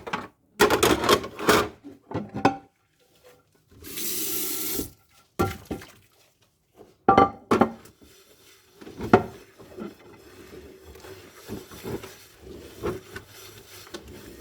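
Dishes being washed by hand: dishes and cutlery clatter and clink, with a short rush of water for about a second in the middle. Quieter rubbing and occasional knocks follow.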